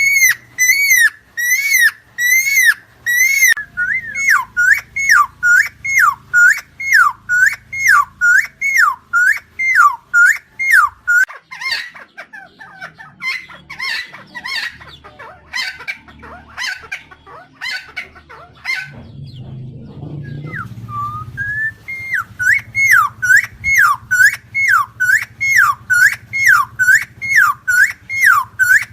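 Helmeted friarbird calling: a fast run of repeated swooping whistled notes, about two a second. In the middle the run breaks into rougher, varied calls and pauses briefly, then the repeated notes start again.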